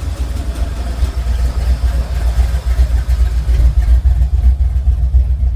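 Car engine idling with a loud, deep, rapidly pulsing exhaust note.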